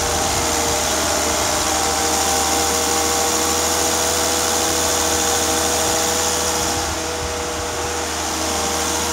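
Volvo XC90's turbocharged engine idling steadily on its first run after new variable valve timing units were fitted, with no misfire or stumble heard.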